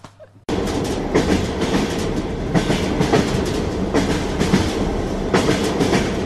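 Passenger train running, heard from inside the carriage: a steady rumble with the wheels knocking over rail joints at irregular intervals. It starts suddenly about half a second in.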